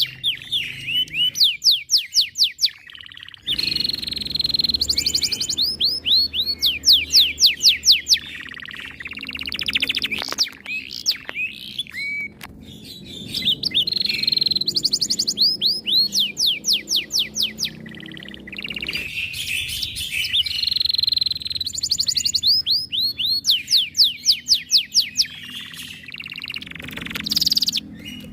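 Domestic canary singing a long, loud song. Phrases of fast repeated downward-sweeping notes, several per second, alternate with steadier rolled trills, separated by brief pauses.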